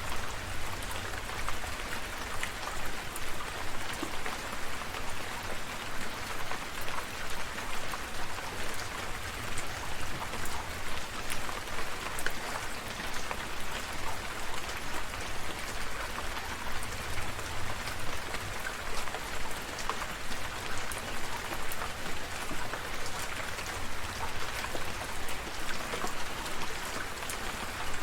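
Steady countryside rain falling: an even hiss with many individual drops heard as short sharp ticks.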